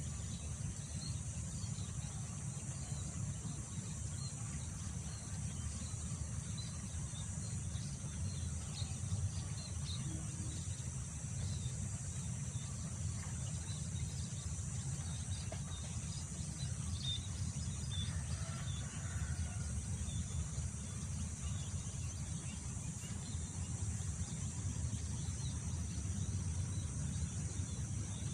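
Wind rumbling low on the microphone under a steady high drone of insects, with faint scattered bird chirps and a brief bird call about two-thirds of the way through.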